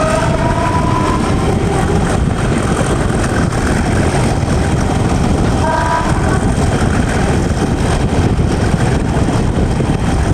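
Train hauled by a Class 37 diesel locomotive, heard from on board: a steady, loud running noise of engine and wheels on rail. Brief high tones sound at the very start and again about six seconds in.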